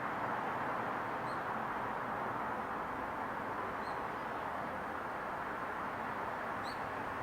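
Steady daytime residential-neighbourhood ambience, an even wash of distant noise, with three brief high chirps from a small bird, the last and loudest near the end.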